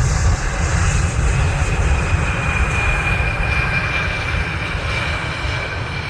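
KLM Embraer E175 regional jet on landing approach, its GE CF34 turbofan engines giving a loud rumble and rush with a steady high whine, slowly fading.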